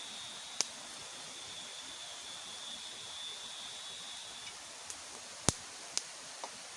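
Steady rushing of river water, with a thin high steady tone that stops about two-thirds of the way in. A few sharp clicks, one early and a cluster near the end, the loudest about five and a half seconds in.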